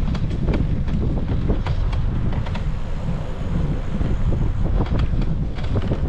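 Wind buffeting the microphone of a camera riding on a moving bicycle, a steady low rumble. Many small irregular clicks and rattles run through it.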